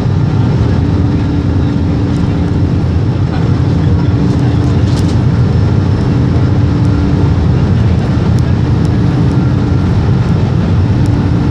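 Boeing 767 jet engines running at high takeoff or climb thrust, heard from inside the passenger cabin as a loud, steady roar with a deep rumble and a constant hum.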